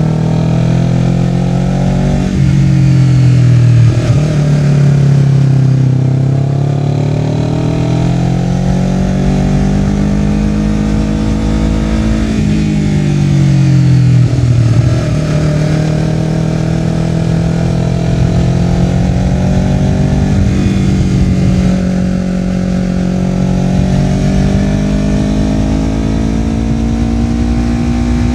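Honda CBR250RR's parallel-twin engine breathing through a Yoshimura R-11 slip-on exhaust while ridden on a winding road. The engine note climbs and falls with the throttle, dropping sharply twice in the first few seconds and falling off for several seconds near the middle before pulling up again.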